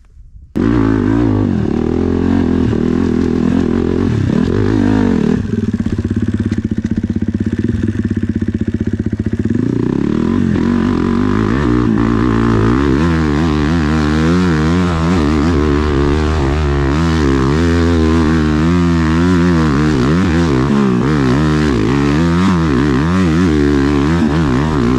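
Dirt bike's 450 engine running loud under load, starting suddenly about half a second in; in the second half the revs rise and fall rapidly over and over.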